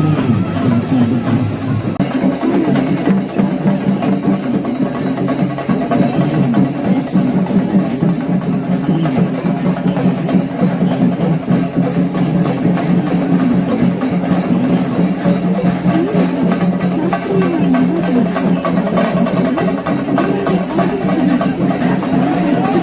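Kerala temple-festival percussion ensemble playing fast, continuous drumming with rapid stick strokes, a wavering melodic line over it.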